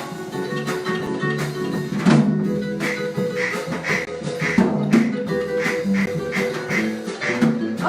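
Live acoustic Brazilian-jazz band playing an instrumental samba passage: plucked strings carrying quick, clearly picked notes over a low bass line, with no singing.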